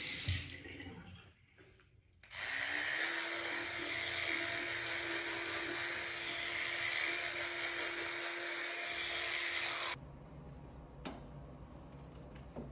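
A small electric motor runs steadily with a whirring hiss and a single steady hum for about eight seconds, then cuts off abruptly. This is typical of a household appliance.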